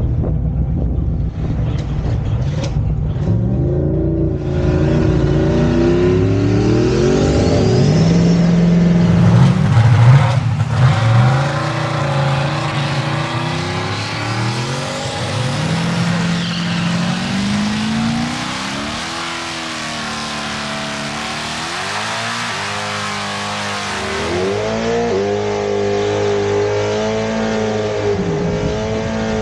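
V8 drag-racing engine pulling hard through the gears: after a low rumble for the first few seconds, its pitch climbs and drops back at each shift, several times over. The loudest stretch comes about ten seconds in.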